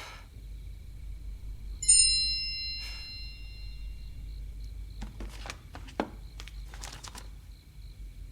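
A single bright chime about two seconds in, its several high tones ringing out, followed a few seconds later by a run of light clicks.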